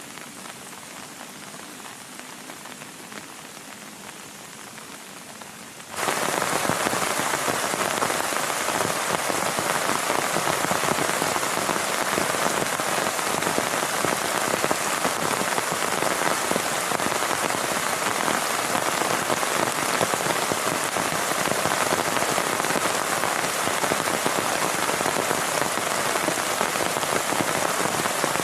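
Heavy rain falling steadily. About six seconds in it jumps abruptly to a much louder, denser downpour and holds there.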